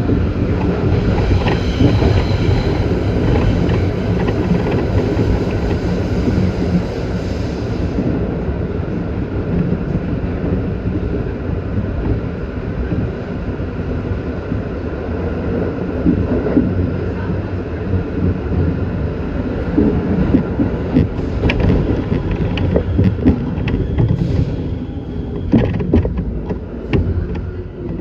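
New York City Subway train running on the track, heard from inside the car: a steady low rumble of wheels on rail. A high whine sounds for the first several seconds and then stops, and sharp clicks and knocks from the wheels crossing rail joints come through in the last few seconds.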